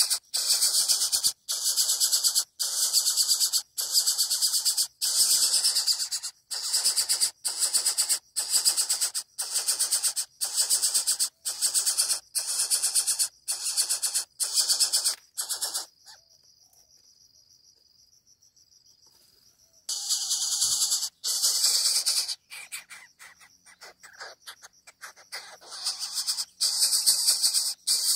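Coucal chick giving harsh, buzzing begging calls for food, about one call a second. The calls stop for a few seconds past the middle, then resume, ragged at first and then back in rhythm.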